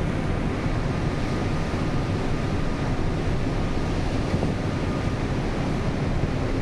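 Steady rush of wind and sea water with a low rumble, heard aboard the Pelni passenger ship KM Lambelu under way. A faint thin whine sits in the background for a few seconds in the middle.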